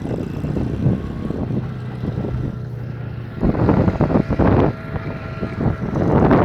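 Small motorcycle engine running under way, with a steady engine note that gets louder about halfway through as it is opened up.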